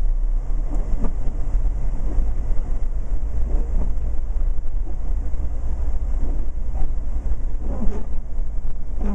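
Steady low rumble heard from inside a car's cabin: engine, road and wind noise while driving through a blizzard.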